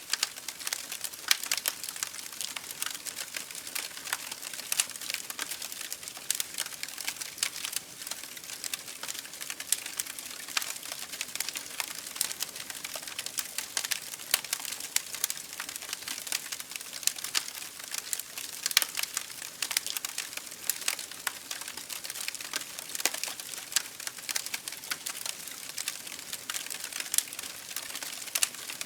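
Campfire burning with a steady hiss and dense, irregular crackling and popping of the wood.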